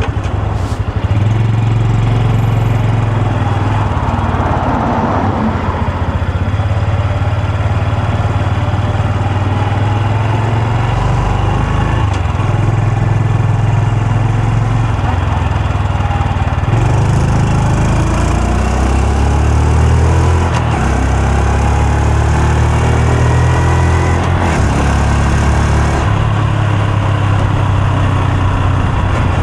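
Honda Super Cub C125's single-cylinder four-stroke engine and exhaust under way, its pitch rising as the bike accelerates and dropping back several times as the gears change or the throttle closes.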